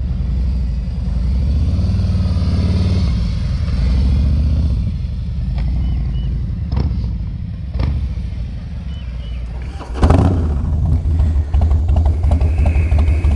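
Harley-Davidson V-twin motorcycle engine running at low speed with a steady low rumble, a few light knocks midway, and a louder, rougher stretch from about ten seconds in.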